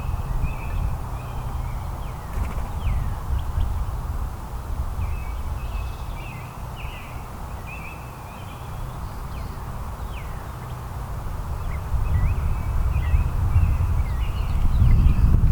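Small songbirds chirping in short, repeated high notes, over a low rumble of wind on the microphone that grows louder near the end.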